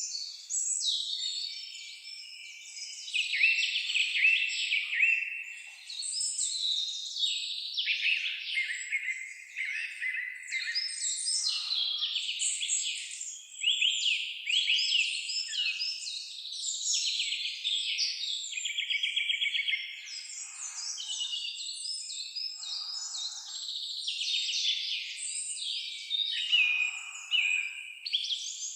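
Several songbirds singing at once, a dense, overlapping chorus of high trills and quick chirping note runs with no pause.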